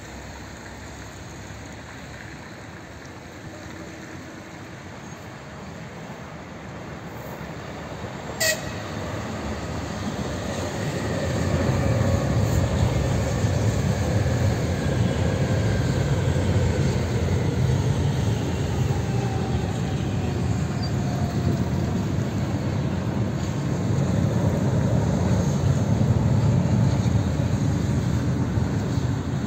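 Electric multiple-unit train approaching and passing: a rumble of wheels on rails grows from about ten seconds in and stays loud, with faint tones that fall slowly in pitch as it goes by. A single short, sharp sound stands out about eight seconds in.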